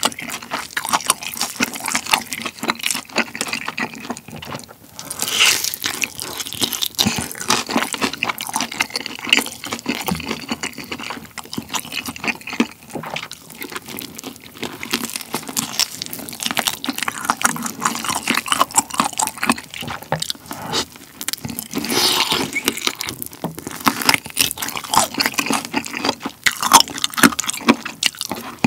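Close-miked eating of a sauce-glazed Korean fried chicken drumstick: chewing and lip-smacking, with a dense run of small clicks and crackles as the meat is bitten and sucked off the bone.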